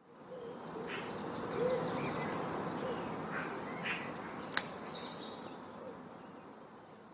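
Several birds chirping and calling over a steady background hiss, with a sharp click about four and a half seconds in. The sound fades in at the start and slowly tapers off toward the end.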